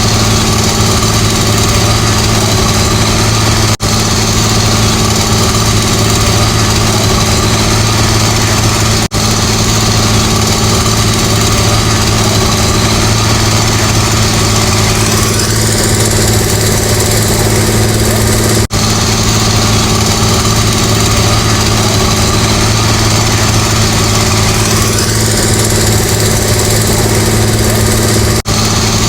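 Diesel engine of heavy road-construction machinery running steadily with a deep hum. About halfway through, and again near the end, the higher-pitched part of the sound rises and swells for a few seconds. The sound drops out for an instant four times.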